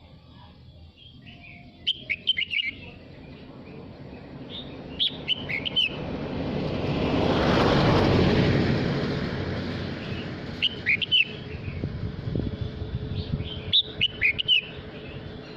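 Male red-whiskered bulbul singing four short, quick warbling phrases, spaced a few seconds apart. In the middle a rushing noise swells up and fades away, louder for a few seconds than the song.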